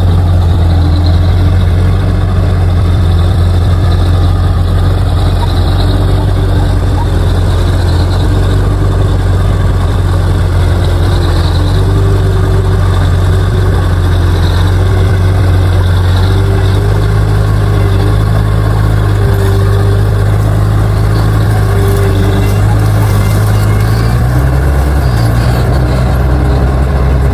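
Bulldozer's diesel engine running steadily with a deep drone while the dozer works soil; the engine note shifts slightly about 24 seconds in.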